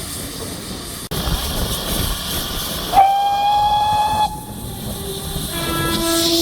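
Steam locomotive hissing steam, then its whistle sounding once, loud and high, for about a second and a half; lower, shorter whistle-like tones follow near the end.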